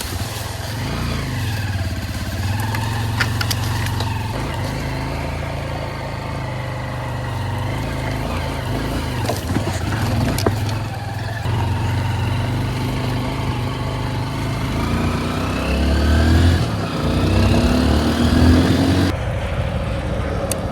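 Honda XR150L's small single-cylinder engine running, its pitch rising and falling several times as it is revved and shifted, with an abrupt change near the end.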